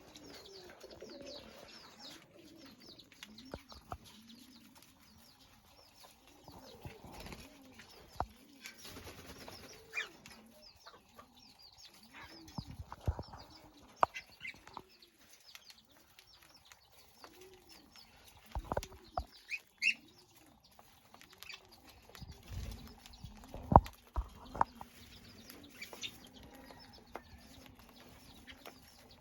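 Cage birds in a cockatiel and budgerigar colony: high chirps over a low cooing call repeated about once a second, with several sharp knocks or wing flaps.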